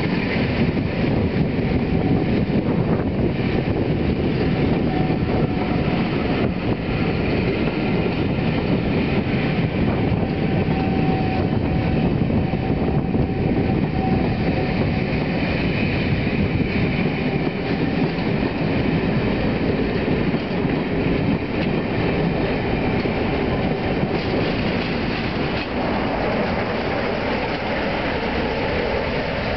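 Passenger coaches rolling slowly past, a steady rumble of wheels on rail with the clack of joints. Near the end the rear Class 47 diesel locomotive draws level, its engine adding a deeper running sound.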